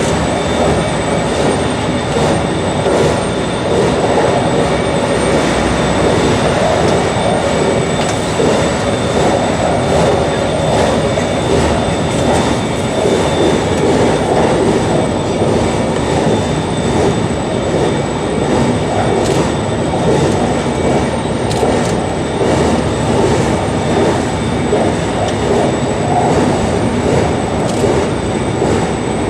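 JR Shikoku 8600 series electric train running steadily on the line, heard from the front of the train: a continuous rolling rumble of wheels on rail, with a few faint steady high tones above it.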